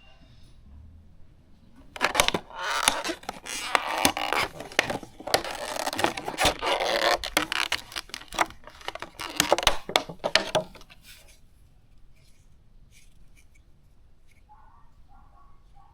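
Loud close-up scraping and crinkling with many sharp clicks, starting about two seconds in and stopping near eleven seconds.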